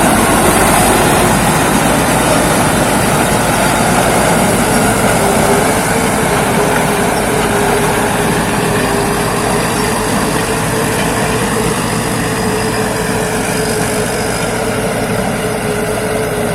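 Thai Seng 'Chao Phayu' rice combine harvester running as it harvests: a steady wash of engine and threshing machinery noise. A steady whine joins it about five seconds in, and the whole sound eases slightly in loudness.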